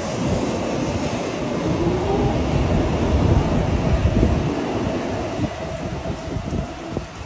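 Shinkansen Nozomi train running past along the platform: a steady rushing rumble of wheels and air that swells about three seconds in, then fades as the last cars pass.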